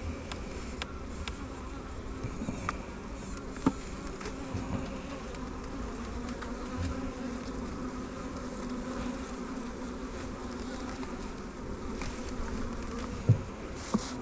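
Honeybee colony buzzing steadily around an opened hive, a low continuous hum. A few sharp knocks and clicks from the wooden hive parts as the hive is closed up, the loudest near the end.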